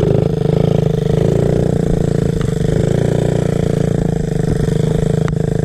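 Small off-road motorcycle engine running at a steady speed, its note holding nearly level.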